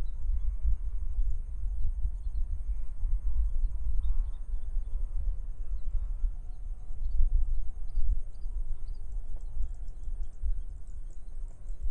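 Wind buffeting the microphone as an uneven low rumble, over a steady high insect drone, with scattered short bird chirps throughout.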